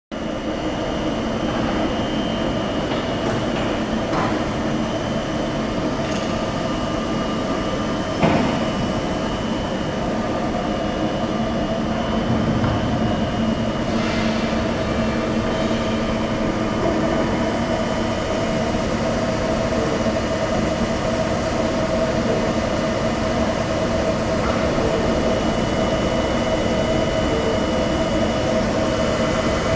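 Dainichi F35X600 CNC lathe running: a steady machine hum with several constant tones, and a sharp clack about eight seconds in, with a few fainter ticks.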